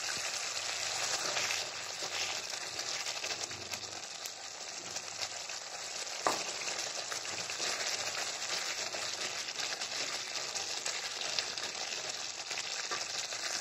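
Onion-tomato masala sizzling steadily in hot oil in a kadai as it is fried down until the oil separates, stirred and scraped with a wooden spatula. One sharp knock a little past six seconds in.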